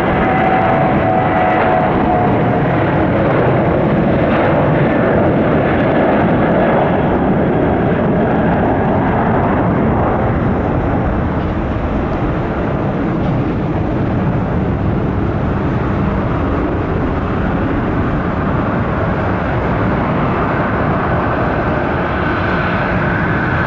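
Boeing 737-700's CFM56-7B turbofan engines at take-off power: a steady loud jet roar, with a whine that falls slightly in pitch in the first seconds as the aircraft goes by.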